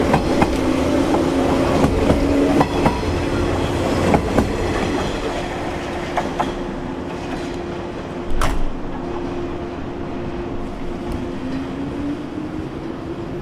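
A 381-series limited express train moves off past the platform, its wheels clicking over the rail joints for the first few seconds and then fading. A single sharp click comes about eight seconds in. Near the end a local electric train pulling out adds a rising motor whine.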